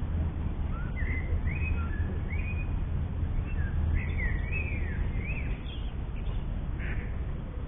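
Songbirds singing: a run of short whistled notes that sweep up and down, fading out near the end, over a steady low rumble.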